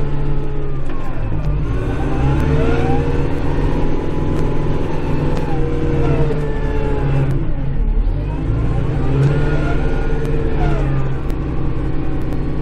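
Kubota Grand L5740 tractor's diesel engine running under load while plowing snow, its note dipping and climbing back twice, lowest about a second and a half in and again about 8 seconds in, with scattered light clicks and rattles.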